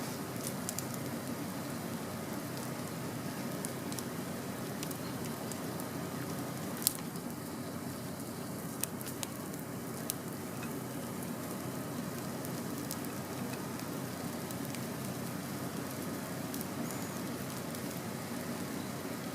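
Wood fire burning: a steady hiss with scattered sharp crackles and pops, the loudest pop about seven seconds in.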